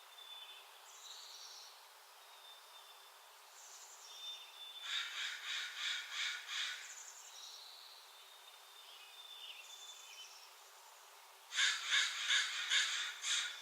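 Two runs of harsh, rapid bird calls, each about six or seven calls over two seconds, the first near the middle and the second near the end. Faint thin high bird notes sound between the runs.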